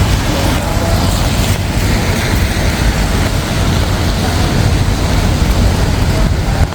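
Steady city street ambience dominated by a continuous rush of road traffic, with no single event standing out.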